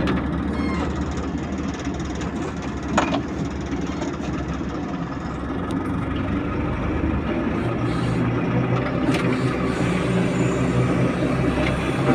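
Heavy vehicle engine running steadily, with a brief knock about three seconds in. The engine note grows a little stronger in the second half.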